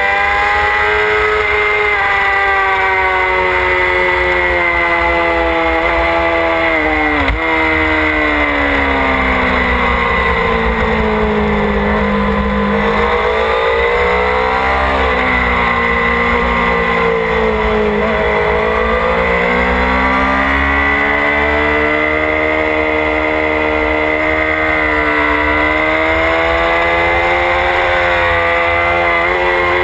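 Motorcycle engine heard from on board the bike, its revs rising and falling as it is ridden around the track, with a sharp drop in revs about seven seconds in. A steady rush of wind noise runs underneath.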